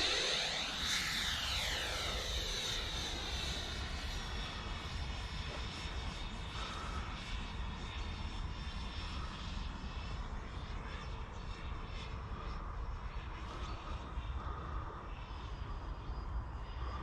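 70mm Freewing electric ducted fan of a foam RC jet in flight, running on 4S. Its steady whine, shifting and whooshing as it passes, fades over the first few seconds as the jet flies away, then carries on at a distance.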